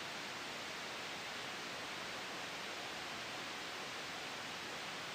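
Steady, soft white-noise hiss for sleep masking, with a gentle wind ambience blended in. It is even and unchanging, with no gusts, and strongest in the upper-middle range.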